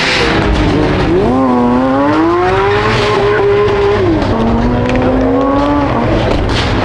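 A car engine revving hard as it accelerates: the pitch climbs, holds, drops abruptly just after four seconds as it shifts up, then holds again before cutting off near the end.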